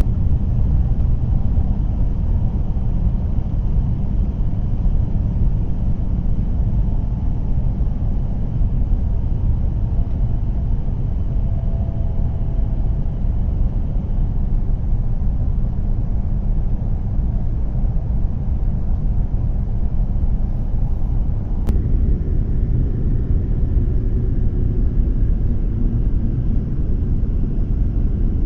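W7 series Shinkansen running at speed, heard from inside the passenger cabin: a steady, even low rumble of running noise.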